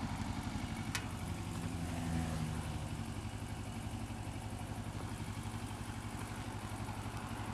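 Kawasaki ER-6f 650 cc parallel-twin motorcycle engine running steadily at low revs, its even firing pulse heard from the rider's helmet. A single sharp click about a second in.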